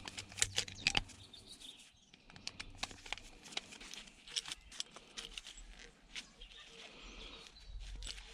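Hand tools and metal and plastic parts clicking, tapping and scraping as a stubborn piece of a broken electrical appliance is worked loose. The sounds come as scattered short clicks rather than any steady noise.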